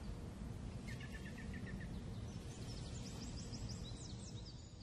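Birds chirping over a low, steady ambient background: a run of quick repeated chirps about a second in, then a series of higher-pitched chirps.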